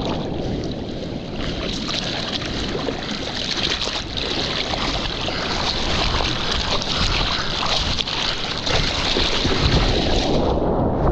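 Water rushing and hissing past a surfboard riding a wave, over low wind rumble on the microphone; the hiss dies away about ten seconds in.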